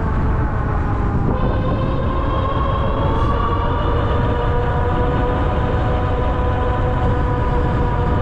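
Ariel Rider Grizzly e-bike's electric hub motor whining steadily under power, its pitch rising slightly about a second and a half in, over a heavy low rumble.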